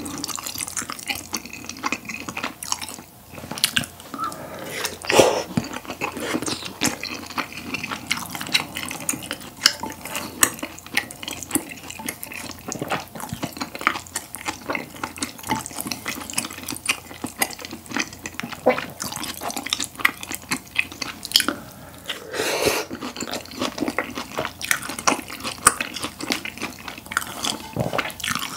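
Close-miked wet chewing and mouth smacking of tteokbokki and grilled beef brisket in spicy sauce, a dense run of small wet clicks. Now and then the chopsticks click against the dish.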